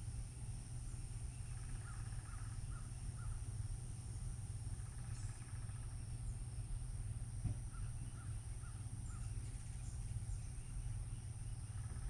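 A bird calling faintly in two short series of about four calls each, over a steady low rumble.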